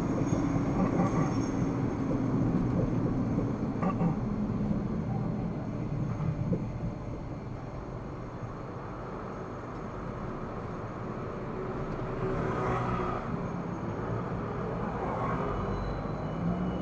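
A car driving in city traffic: steady engine and tyre rumble, easing off for a few seconds mid-way, then rising again.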